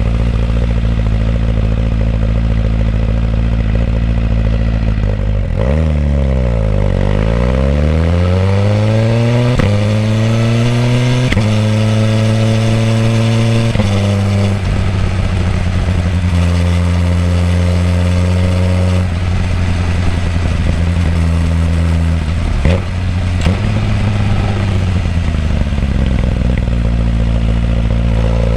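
2018 Suzuki GSX-R1000R's inline-four exhaust note through the stock muffler, picked up close to the silencer while riding. The engine holds steady, then about six seconds in the pitch dips and climbs in several rising sweeps broken by upshifts, settles into steady running, drops back, and starts rising again near the end.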